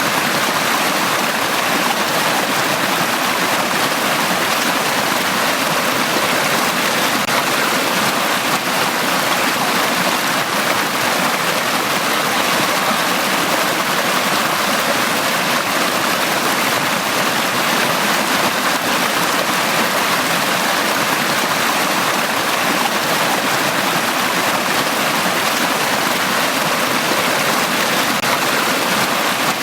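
Mountain valley stream flowing over rocks: a steady, even rush of water without a break.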